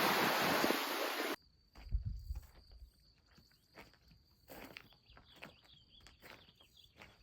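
Wind rushing over the microphone, cut off abruptly about a second and a half in; then faint scattered rustles and crunches like footsteps, over a steady faint high tone.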